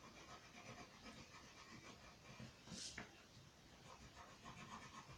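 Near silence: a marker faintly scratching over shrink plastic as an outline is drawn, with one short hiss about three seconds in.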